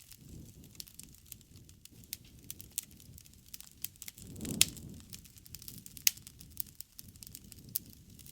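Wood campfire crackling, with many sharp pops over the low rush of the flames. The loudest pop comes about halfway through, with a brief swell of the low rush, and another strong pop follows about a second and a half later.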